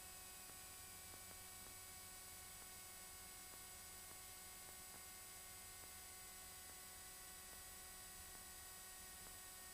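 Near silence: a faint, steady hiss with a low electrical hum.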